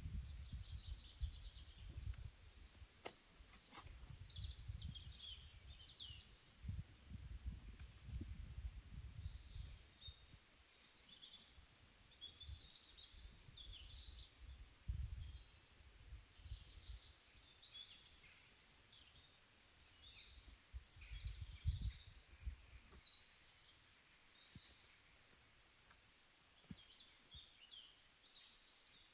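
Faint chirping and twittering of small birds, with a low wind rumble on the microphone that comes and goes, heaviest in the first half and again about two-thirds of the way through.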